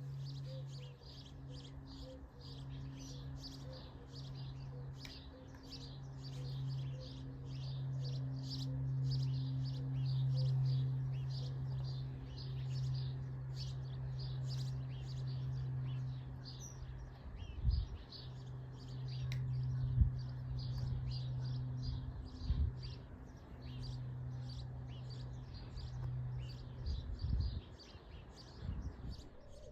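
Birds chirping, a steady run of short high chirps, over a low steady hum that drops out now and then. A few sharp thumps come in the second half.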